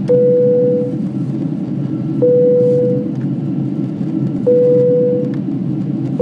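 Steady low rumble of a jet airliner cabin in flight, engines and airflow. Over it a single clean tone sounds four times, about every two seconds, each starting sharply and fading within a second.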